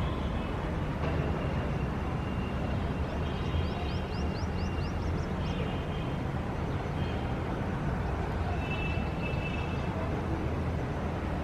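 Steady city traffic rumble, with birds calling over it in short high chirps. A bird gives a quick run of about eight short rising notes a few seconds in.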